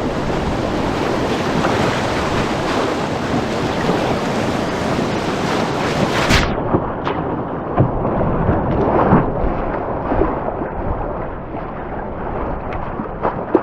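Rushing whitewater of a rapid as a steady loud roar, with wind buffeting the microphone. About six seconds in the sound cuts abruptly to a duller recording of the moving water, with a few short knocks.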